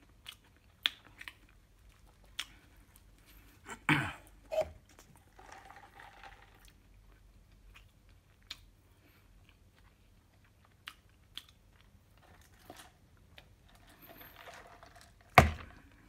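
Close-up chewing of a mouthful of burger, with wet mouth clicks scattered throughout and two louder knocks about four seconds in. Near the end there is a single sharp thump, the loudest sound.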